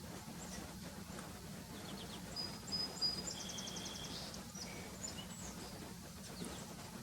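Songbirds calling: high thin whistled notes and a short rapid trill about three seconds in, over a steady low hum.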